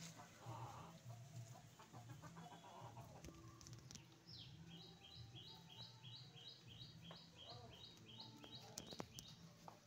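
Faint bird calling: a rapid series of short, high chirps repeated evenly about three times a second, starting about four seconds in and stopping near the end, over a faint low hum.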